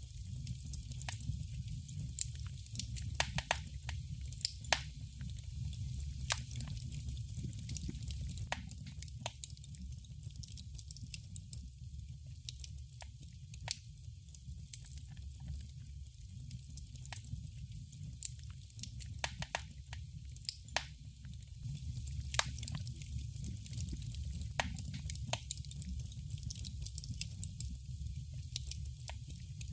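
Wood fire crackling in a fireplace: irregular sharp pops and snaps, a few much louder than the rest, over a steady low rumble of the flames.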